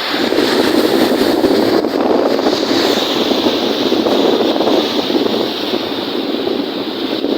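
Strong wind rushing over the microphone together with wind-driven waves on a lake, a loud, steady rushing noise.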